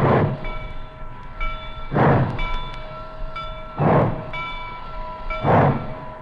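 Steam locomotive exhaust chuffing slowly, one heavy beat about every two seconds and gradually quickening, as when a steam engine is getting under way. Between the beats a steady high ringing tone of several notes sounds.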